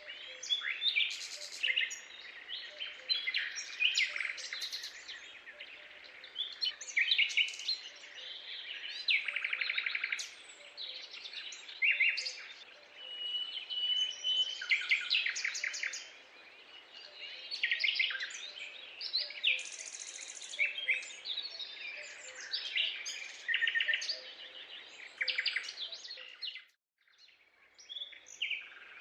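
A chorus of many birds chirping, trilling and whistling over one another, with a short break a couple of seconds before the end.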